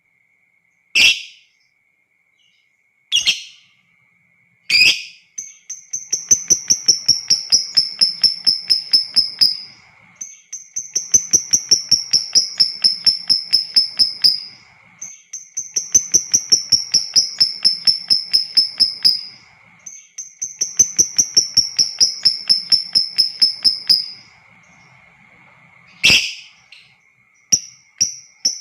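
Lovebird giving a few shrill single calls, then four long runs of rapid chattering, each about four seconds long: the long trilling song that Indonesian keepers call ngekek panjang. More sharp single calls come near the end.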